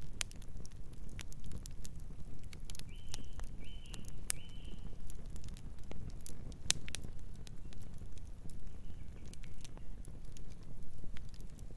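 Wood fire crackling, with sharp irregular pops and snaps over a steady low rumble of burning. A distant bird gives three short calls in quick succession about three seconds in, and a fainter call later on.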